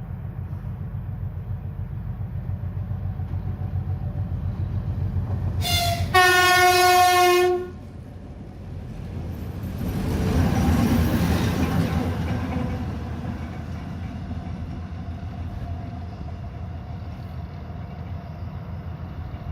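A train approaching with a rising low rumble sounds its horn: a short high note, then a loud blast of about a second and a half about six seconds in. A rush of noise swells and fades as it passes, leaving a steady rumble.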